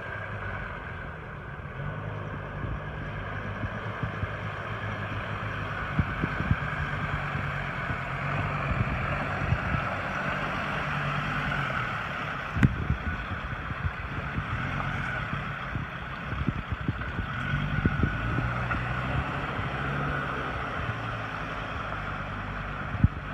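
Engine running steadily under way, its low hum shifting a little in pitch, with scattered sharp knocks and a rushing noise over it.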